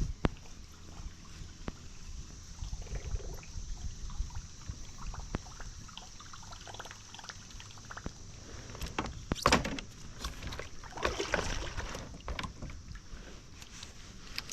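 Kayak on the water: small knocks and water sounds as the boat and gear are handled, with one sharper knock about nine and a half seconds in, followed by a brief splashy rush.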